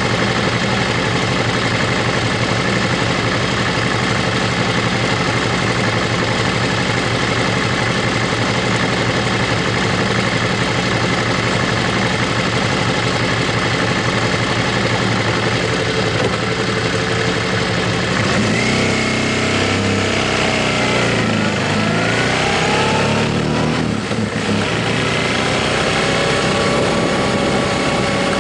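Motorcycle engine running at steady revs under way. About two-thirds of the way through, the revs fall and rise again for several seconds, as when changing gear or easing off, and then they settle back to a steady pitch.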